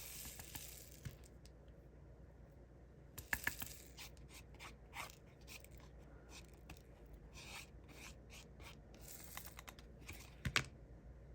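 Light handling noises of diamond painting supplies: scattered small clicks, rustles and scrapes of plastic tools and drill containers, with a short rustle at the start and a sharper click near the end.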